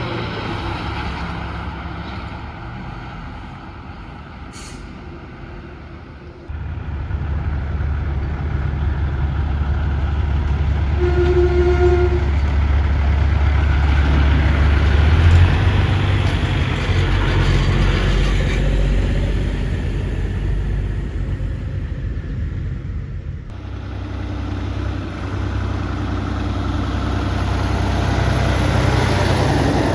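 Diesel semi-truck engines running and passing, a deep steady drone that jumps louder about six seconds in and dips briefly near the end. A short pitched tone, about a second long, sounds partway through.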